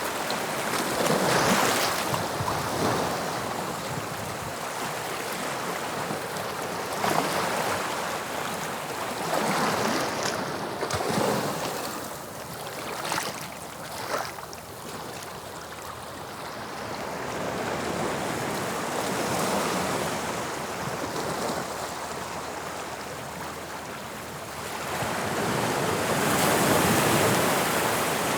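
Sea waves breaking and washing on the shore of the English Channel, the surf swelling and easing in uneven surges, loudest near the end.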